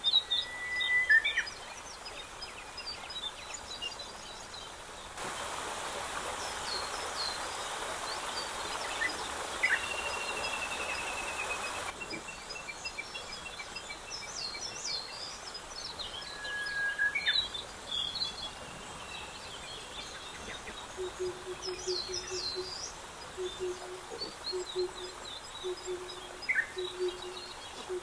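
Wild birds calling and chirping in open country: short high whistles and chirps come and go throughout. From about three-quarters in, a low hooting call repeats in short, evenly spaced notes, and for several seconds in the first half a steady hiss sits under the birdsong.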